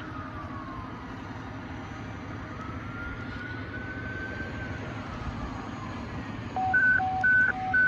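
Fire engine siren in slow wail, falling, rising over a couple of seconds and falling again over a steady low vehicle rumble. Near the end a louder alternating high-low two-note tone starts and repeats.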